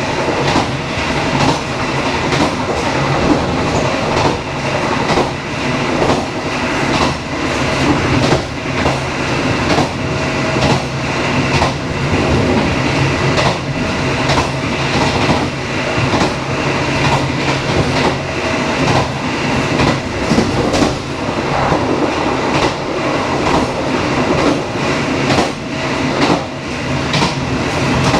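Passenger train running along the line: a steady rumble of the carriages with frequent clicks of the wheels over the rails.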